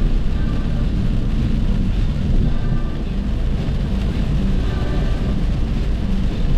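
Steady low rumble of a car driving at highway speed: tyre, road and engine noise.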